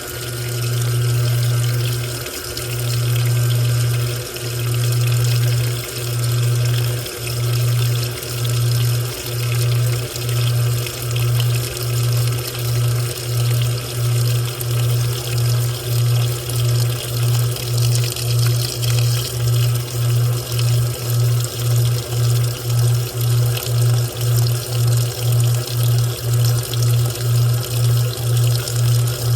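Washing machine running with water sloshing and a low pump hum that pulses on and off, the pulses quickening from about one every two seconds to nearly two a second, as when the drum speeds up while the water drains.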